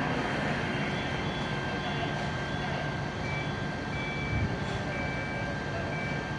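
Idling vehicle engine with a steady hum. From about halfway through, short high electronic beeps repeat roughly once a second, like a vehicle's reversing alarm.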